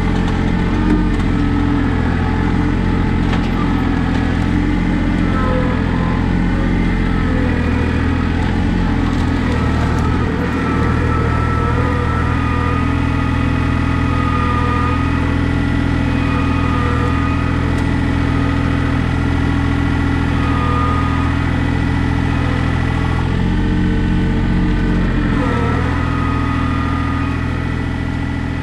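John Deere 855 compact tractor's diesel engine running steadily, with a brief change in pitch near the end and a fainter wavering whine above it.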